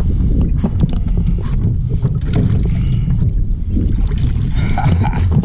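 Kayak on the water: a steady low rumble of wind on the microphone, with water lapping and small irregular knocks against the hull.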